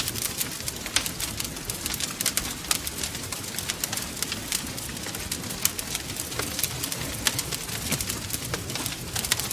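Wood fire crackling, with frequent sharp, irregular pops and snaps over a steady low hiss and rumble of burning.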